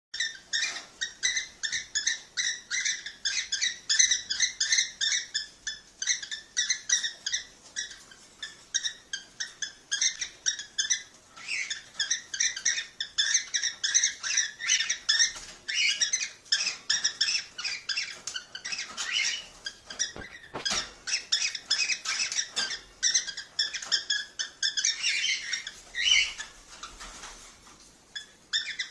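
Cockatiels chirping in rapid, nearly continuous runs of short high calls, several a second, easing briefly near the end.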